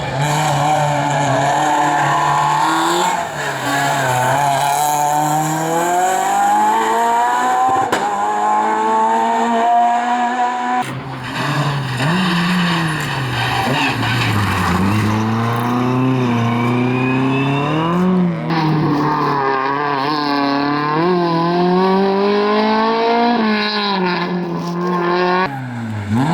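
Rally car engines revving hard and running up through the gears, the pitch climbing and then dropping at each shift, with revs falling and blipping in places. The sound changes abruptly about eleven and eighteen seconds in, as if from one car to the next.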